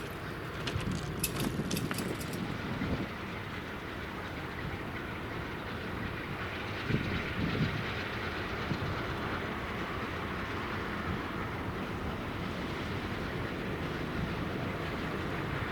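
A train running on the track, a steady rumble with irregular knocks of the wheels over rail joints, slowly growing louder.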